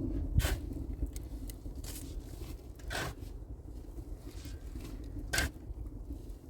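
Three scraping strokes, roughly one every two and a half seconds, over a steady low rumble.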